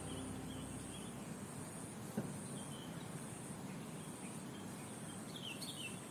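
Insects trilling in a high buzz that pulses on and off about every half second, with short falling bird chirps near the start and again near the end. A single sharp knock sounds about two seconds in.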